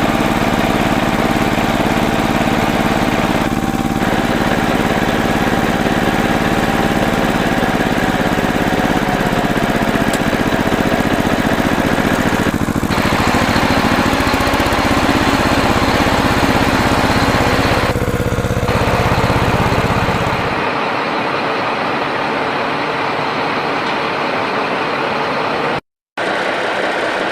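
Tractor engine sound running steadily, shifting pitch a couple of times, then changing abruptly about three quarters of the way through to a thinner sound, with a split-second gap of silence near the end.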